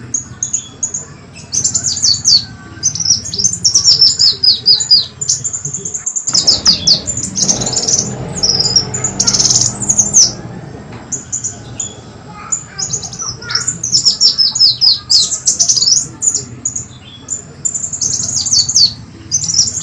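Kolibri wulung sunbird call used as a bird lure: rapid runs of high, sharp, downward-sliding notes, repeated in bursts. About six seconds in the runs stop for a few seconds, with a low rumbling noise under scattered chirps, then they resume.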